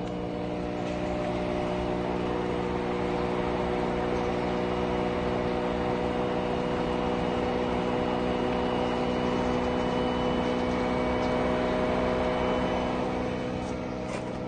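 Washing machine on its spin cycle: a steady motor hum with several held tones, growing slightly louder and then easing off near the end.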